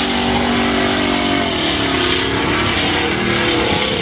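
Mud-racing 4x4's engine running loud and hard at high revs. Its pitch holds steady for about the first second and a half, then rises and falls as the throttle is worked.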